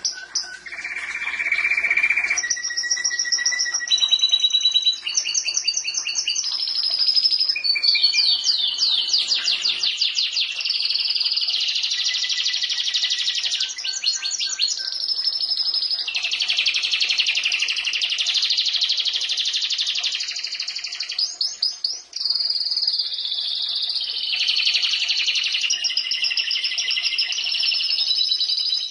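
Domestic canary singing a long, nearly unbroken song of rapid trills and rolling repeated notes, changing from one phrase to the next every second or two, with held high tones between. It is the vigorous, nonstop 'gacor' song used as a master recording for training other birds.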